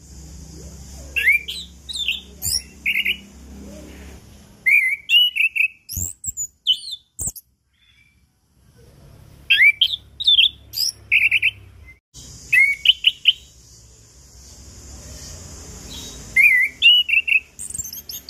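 Orange-headed thrush (anis kembang) singing in short phrases of quick, sliding whistled and chirped notes, separated by brief pauses. Two short clicks come about midway.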